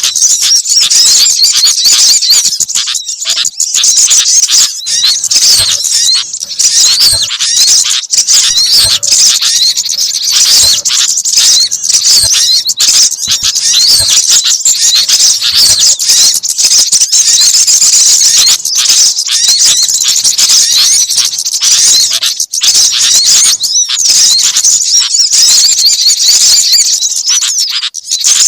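Dense, continuous high-pitched chirping and twittering of small songbirds, many calls overlapping at once. It is a bird-lure recording that mixes the calls of several small species.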